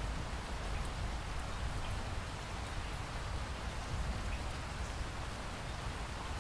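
Steady rain falling, with a few faint drop ticks over a low rumble.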